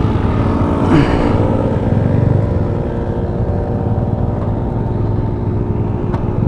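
Yamaha Sniper 150's single-cylinder engine idling steadily, with a brief knock about a second in.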